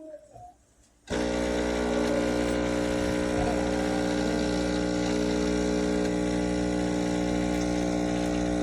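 Laekerrt espresso machine's 20-bar pump switching on suddenly about a second in, then running with a loud, steady buzzing hum.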